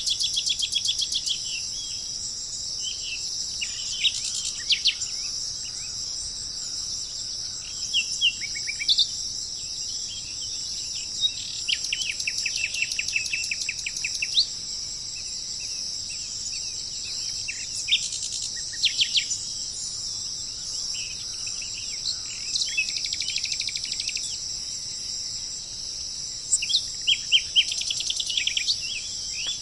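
Wild birds chirping and trilling in quick runs of repeated notes, in bursts with gaps between, over a steady high-pitched insect drone.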